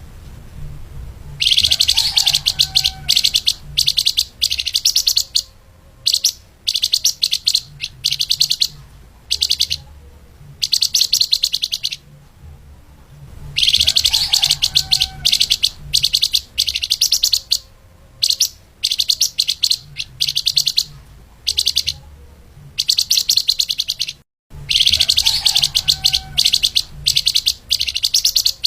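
Songbird known in Indonesia as the flamboyan or lemahan singing a fast, tightly packed high-pitched song. It comes in repeated rapid bursts of about a second each, with short pauses between them and a faint low hum underneath.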